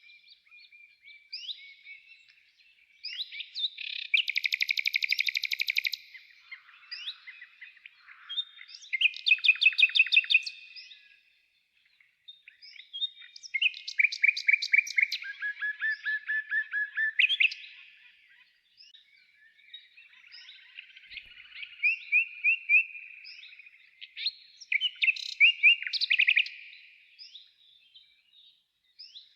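Songbirds singing: loud phrases of rapid repeated notes and trills every few seconds, with fainter chirps between them.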